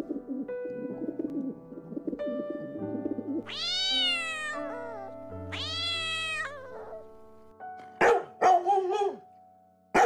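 Pigeons cooing in a low burble, then a cat meowing twice, each meow rising and falling in pitch, then a dog giving four quick loud barks near the end, over background music with held notes.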